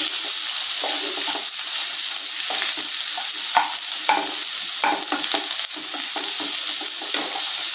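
Boiled potato cubes, onion and peanuts frying in oil in a nonstick pan: a steady sizzle, with the irregular scrapes of a spatula tossing them.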